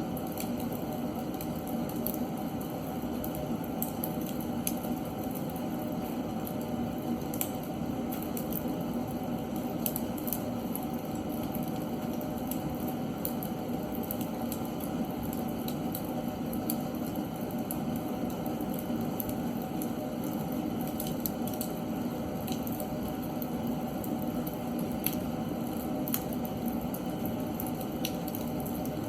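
Seasoned oak logs burning in a fireplace: a steady low rushing of flame with frequent sharp crackles and pops scattered irregularly throughout.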